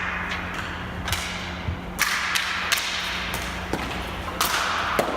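Ball hockey play: sharp clacks of sticks striking the ball and each other, about ten at irregular intervals, over a steady low hum.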